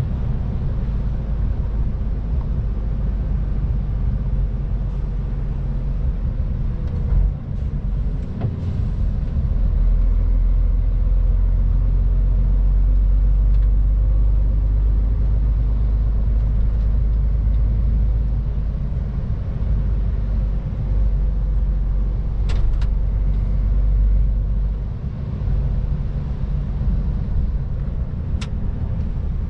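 MAN TGX 18.510 semi-truck's inline-six diesel and road noise while driving, a continuous low rumble that grows louder for a while in the middle. A few sharp clicks or knocks sound later on.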